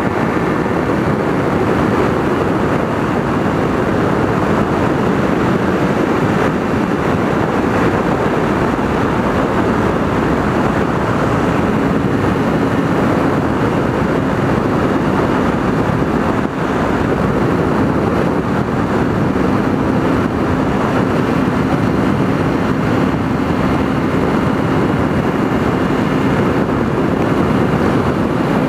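Kawasaki Ninja 300's parallel-twin engine running steadily at cruising speed on the road, mixed with a steady rush of wind noise.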